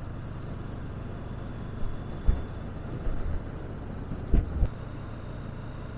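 Honda CB500X motorcycle running at a slow riding pace, a steady low engine hum under road and wind noise, with a few short dull knocks about two and four and a half seconds in.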